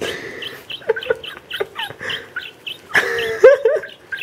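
A small pet parrot making a quick run of short chirps and clicks, about four a second, in a beatbox-like rhythm. About three seconds in comes a harsh rasp, then squeaky notes that slide up and down.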